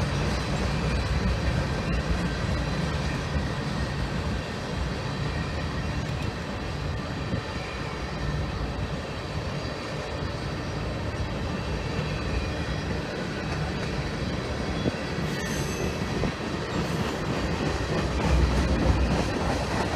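Freight train's cars rolling past, a steady rumble of steel wheels on the rails.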